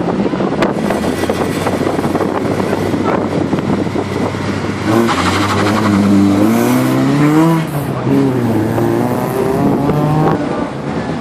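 Wind noise on the microphone, then from about five seconds in a race car's engine revving, its pitch rising and falling several times before it fades near the end.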